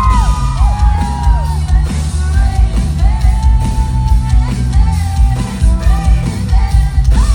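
Loud live pop concert music as heard in the crowd: a heavy bass-driven beat with singing over it and yells from the audience.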